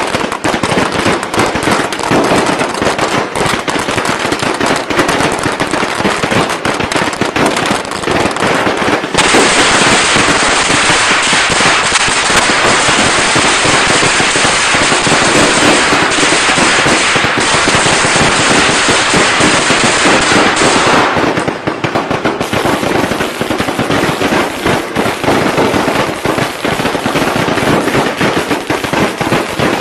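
Traditional Vietnamese Tết firecrackers going off in a rapid, continuous run of bangs. About nine seconds in, the sound becomes a louder, denser crackle. Around 21–22 seconds it thins back to more separate bangs.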